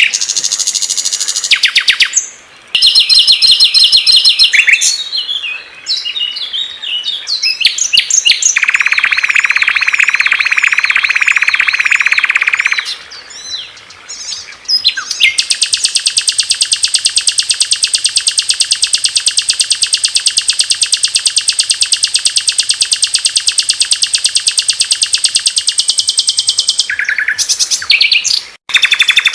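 Small songbirds singing a string of loud, high-pitched chirps and rapid trills, one song giving way abruptly to another, as in a masteran recording used to teach caged birds. The longest part is a very fast, even trill held for about twelve seconds in the second half.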